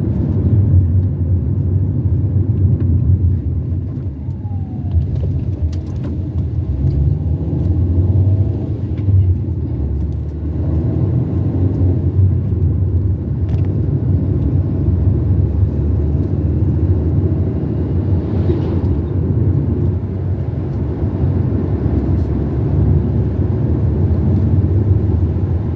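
Car driving along a road: steady low rumble of engine and tyres.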